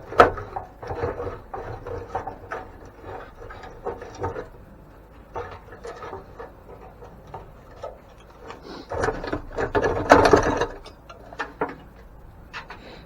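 Hand work on the parts of an antique grain mill: scattered knocks, clicks and rubbing of metal and wood parts, with a louder, busier stretch of rattling and scraping about nine seconds in that lasts a second and a half.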